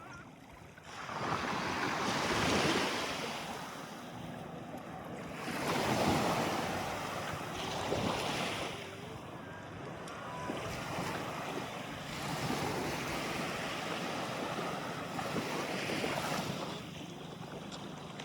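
Sea waves washing in, the noise swelling and falling back every few seconds, with wind on the microphone.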